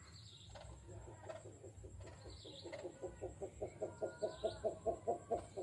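A captive bird known locally as burung jujuk or tatapaian calling: a rapid, even series of low hooting pulses, about five a second, building in loudness toward the end. A few short high chirps sound about every two seconds over it.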